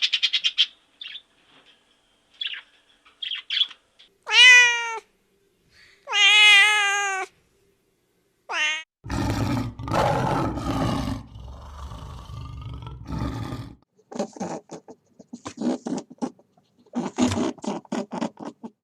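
Domestic cat meowing: a short meow about four seconds in, a longer wavering meow at about six seconds, and a brief cry near nine seconds. After that come rustling and clicking noises.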